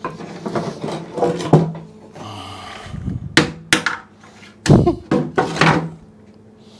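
Tools and hard objects knocking and clattering against a motorcycle fuel tank: a short rasp about two seconds in, then about half a dozen sharp knocks over the next three seconds.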